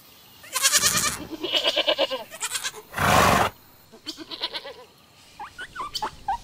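A pony whinnying: a long, quavering call, followed about three seconds in by a short snort. Short, high squeaks come in near the end.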